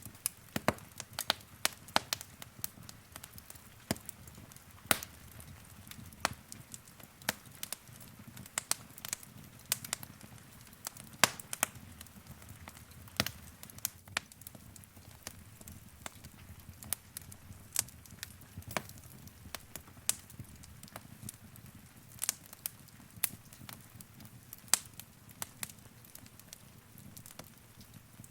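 Wood fire in a fireplace crackling: sharp, irregular pops and snaps over a soft, low rumble of flame.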